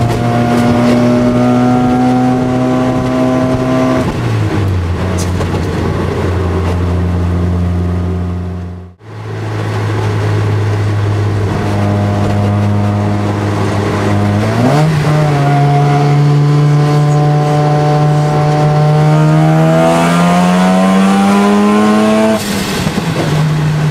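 Mazda RX-7 FD3S's single-turbo 13B rotary engine heard from inside the car while driving: a steady engine note that steps down in pitch about four seconds in and cuts out briefly near the middle. It then jumps up and climbs steadily in revs under acceleration before dropping at a gear change near the end.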